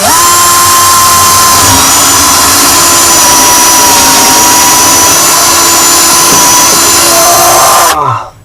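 Electric drill boring a test hole into a boat's wooden transom. It runs loud and steady at full speed for about eight seconds, then winds down near the end. The hole is drilled to pull out shavings that show whether the transom wood is rotted.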